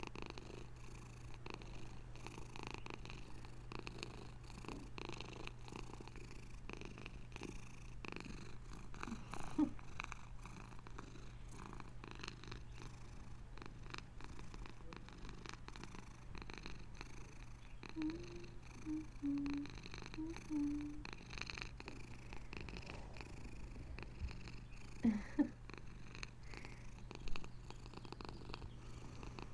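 Bengal cat purring steadily, a continuous low pulsing rumble. A few brief, louder, higher sounds break in about ten seconds in and again around two-thirds of the way through.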